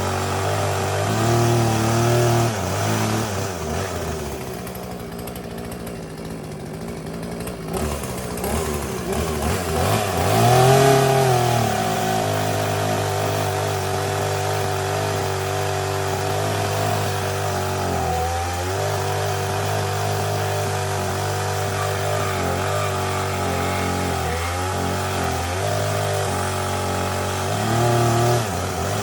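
Poulan Pro P3816 38cc two-stroke chainsaw, freshly rebuilt, warming up at a steady idle with three short rises in revs: near the start, about ten seconds in, and near the end.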